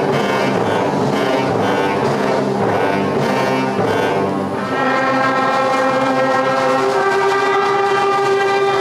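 Upper primary school concert band playing, brass and woodwinds together. A busy passage gives way about five seconds in to a long held chord.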